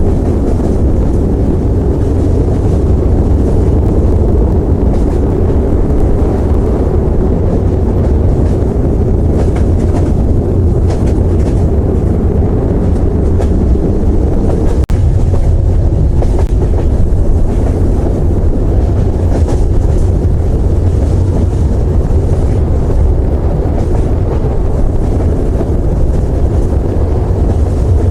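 Loud, steady low rumble with no clear rhythm, cutting out for an instant about halfway through.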